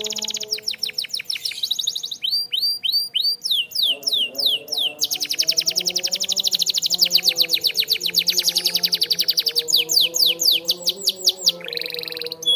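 Canary singing a song of rapid trills. Each phrase is a fast run of repeated high notes, broken by a few slower, downward-sweeping notes, and the phrase changes every second or two.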